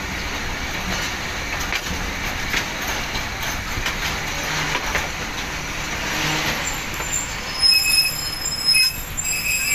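Pakistan Railways express passenger coaches rolling slowly into a station, wheels running on the rails with a steady rumble. About three quarters of the way in, a high metallic squeal of wheels and brakes sets in in several loud spells as the train slows toward a stop.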